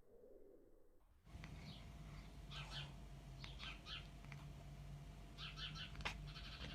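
A cat chirping at a bird: clusters of short, high chirps that start about a second in, over a low steady hum.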